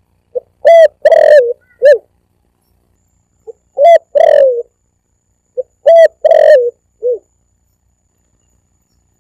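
Spotted dove (tekukur) cooing, recorded for use as a hunting lure call. It gives three phrases, each a short soft note followed by two or three louder coos, roughly every two and a half seconds, with silence between the phrases.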